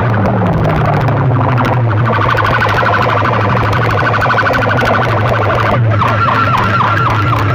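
Electronic siren-like alarm effect over a steady heavy bass, played loud through DJ speaker-box sound systems. About six seconds in it switches to a fast warble of repeated sweeps, about four a second.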